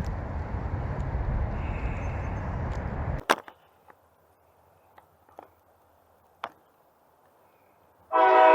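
Wind rushing on the microphone during the ride cuts off suddenly with a click about three seconds in, leaving near quiet with a few faint ticks. Near the end a loud train horn starts blowing, and it startles the rider.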